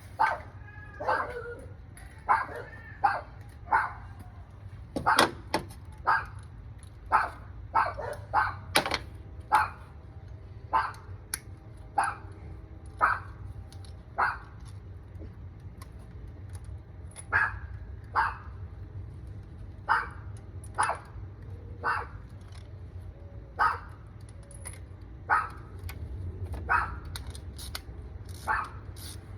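A dog barking over and over, short sharp barks at an irregular pace, roughly one or two a second, with a few drawn-out whining calls in the first few seconds.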